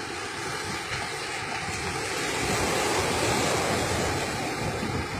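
Ocean surf breaking on a beach, a steady rushing wash that swells louder in the middle, with wind buffeting the microphone.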